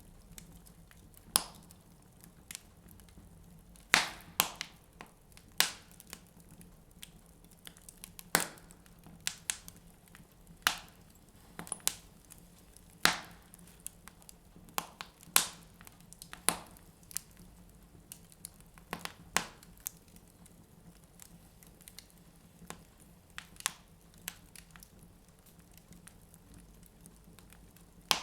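Wood fire in a fireplace crackling, with irregular sharp pops and cracks of the burning logs, a few of them much louder than the rest, over a faint steady hum.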